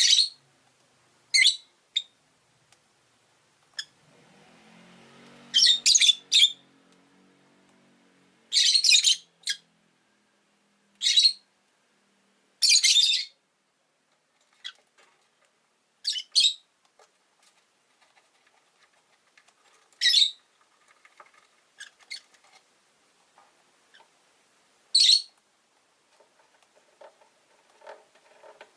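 Rosy-faced lovebirds chirping: sharp, high-pitched calls, singly and in short clusters of two or three, every second or few seconds. A faint low rumble sits behind the calls for a few seconds near the start.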